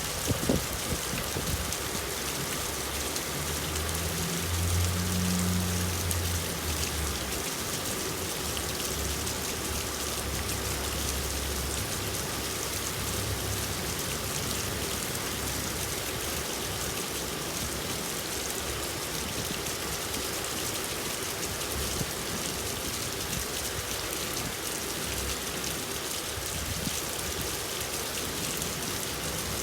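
Steady rain falling, an even hiss of many drops on surfaces. A low rumble swells and fades during the first ten seconds or so, and a couple of sharp drip clicks sound at the very start.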